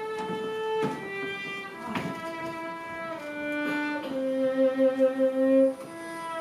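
A slow fiddle melody of long held notes over a string backing, the instrumental lead-in to a sung country ballad. The last note, from about four seconds in, is the longest and loudest and wavers as it is held.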